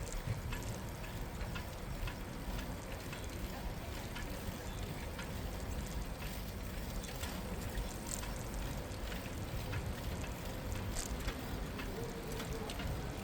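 Steady rumble and hiss of a bicycle riding along a city street, heaviest in the lows, with frequent light clicks and ticks scattered through it.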